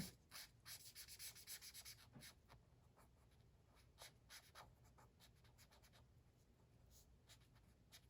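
Faint scratching of a colouring tool on paper: quick back-and-forth strokes filling in a shape, busiest in the first two seconds, then sparser.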